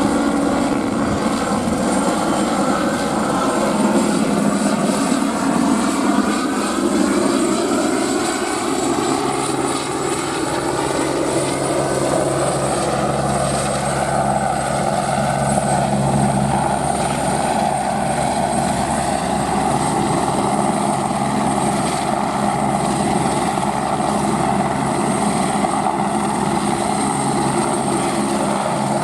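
Airbus AS350 helicopter in flight: rotor chop and the high whine of its single turbine engine. The engine tones shift in pitch during the first ten seconds or so, then hold steady.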